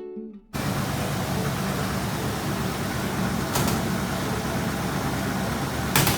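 First-generation Ford Bronco's engine running steadily with a low rumble, starting abruptly about half a second in as the guitar music cuts off. Two short sharp clicks come partway through and near the end.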